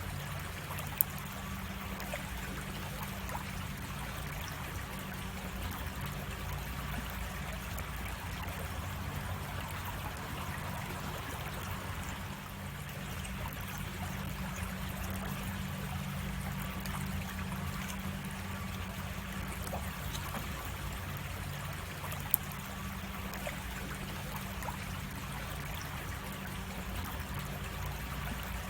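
Creek water running and trickling steadily. Two sharp clicks cut through it, one about a second in and one about three-quarters of the way through.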